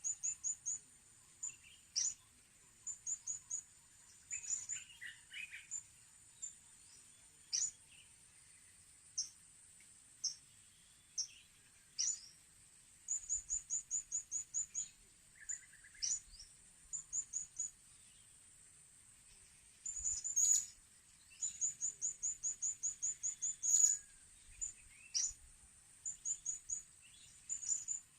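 Small birds calling: quick runs of short, high, thin chirps and single sharp notes, repeated many times over a steady high-pitched whine.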